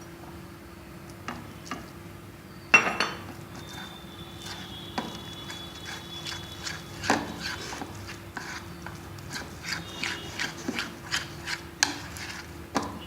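A spoon stirring gram-flour (besan) batter in a bowl, clinking and knocking against the bowl many times, with one loud metallic clank about three seconds in.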